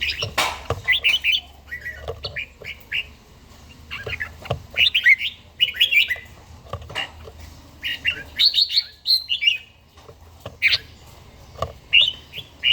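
Red-whiskered bulbul singing: short bursts of quick, warbling chirps repeated every second or two.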